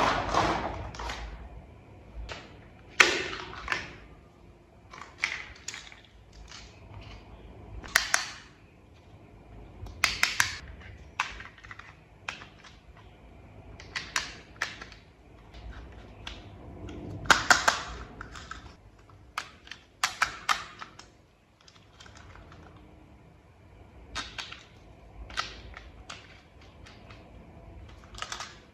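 Hard plastic toy parts clicking, tapping and scraping as they are handled and fitted together, in irregular bursts with a few sharper snaps.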